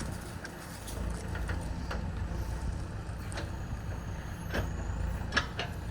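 Diesel engine of a JCB 3DX backhoe loader running under work, getting louder about a second in, with a few sharp knocks near the end.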